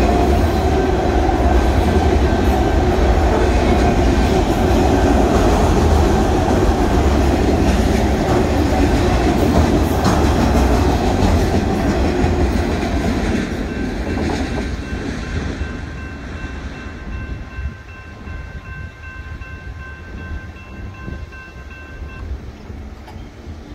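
Union Pacific freight train of autorack cars rolling past a grade crossing, wheels clattering on the rails; the rumble fades away about halfway through as the last car clears. The crossing signal's bell keeps ringing through the fade and stops near the end.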